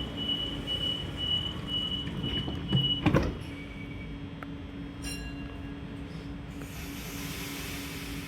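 Sydney Trains Waratah (A set) doors closing: a rapid repeating warning beep, then the doors shut with a thud about three seconds in. A steady hum from the stationary train runs underneath, with a soft hiss near the end.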